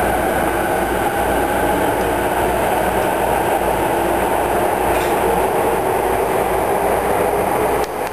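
Train running along the track: a steady rumble and rolling-wheel noise, which drops away suddenly near the end.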